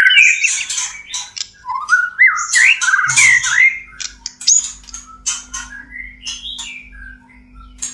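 White-rumped shama (murai batu) in courtship song: a rapid run of varied whistled phrases with rising glides, mixed with short sharp chips. The phrases are dense and loud for the first few seconds, then thin out into scattered quieter notes.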